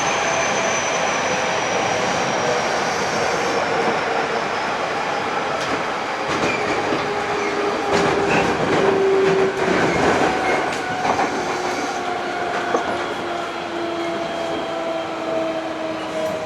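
Hankyu 8000 series electric train heard from inside a car. The Toshiba GTO-VVVF inverter and traction motors give several thin tones that slide slowly down in pitch, over the running noise of wheels on rail. A run of clicks and knocks from wheels passing rail joints or points comes around the middle.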